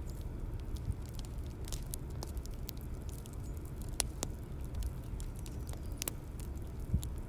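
Bonfire ambience: a steady low rumble of the fire with scattered sharp crackles and pops, a few louder snaps among them.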